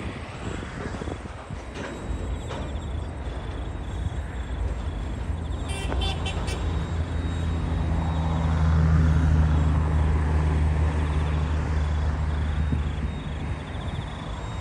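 Diesel engine of a passing train running with a low, steady hum that swells to its loudest around the middle and fades toward the end, over a continuous rumble. A short run of sharp clicks comes about six seconds in.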